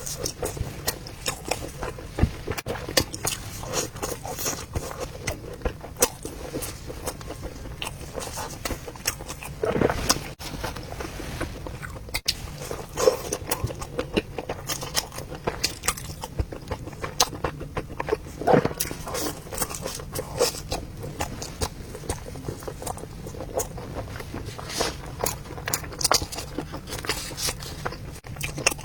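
Close-up chewing and mouth sounds of a person eating an Orleans chicken rice ball with corn kernels: many irregular soft clicks and smacks.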